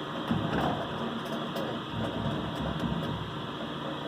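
Brake lathe running with a steady mechanical hum and uneven low rumble, with a few faint light clicks along the way.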